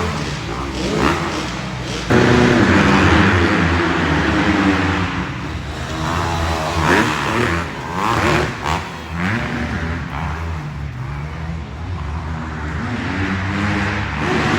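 Several dirt bike engines revving on the track, their engine notes overlapping and rising and falling as the riders work the throttle; the sound gets suddenly louder about two seconds in.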